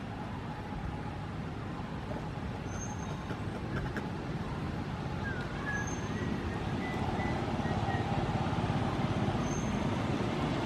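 Steady background rumble like road traffic, growing slightly louder toward the end, with a faint short high chirp about every three seconds.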